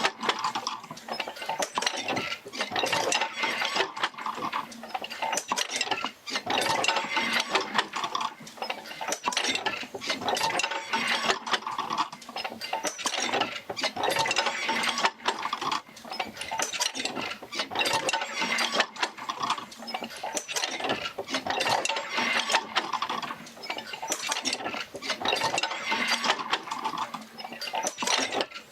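Oil-field field wheel, driven by a Fitzgerald rig, working its jerker lines out to several pumps: a continuous mechanical clatter of small clicks, knocks and ratcheting that swells and eases every couple of seconds with the back-and-forth stroke.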